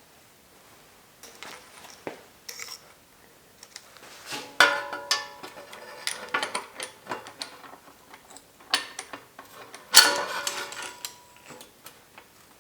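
Metal bicycle parts and hand tools clinking and clattering during workshop bike assembly, in irregular handling knocks. The loudest clanks, about four and a half seconds in and again about ten seconds in, ring briefly.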